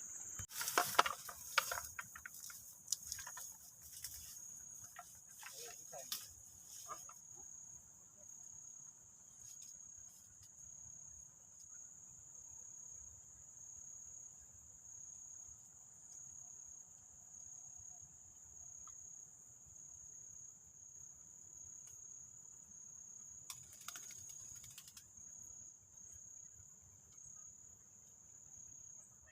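Steady high-pitched chirring of insects. A run of short knocks and rustles sounds over it for the first several seconds, and there is a brief rustle about three-quarters of the way through.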